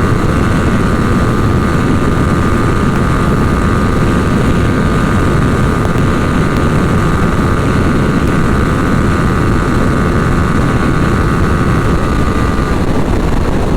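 Motorcycle at a steady highway cruise: heavy wind rush over the helmet microphone with a constant, unchanging engine note underneath.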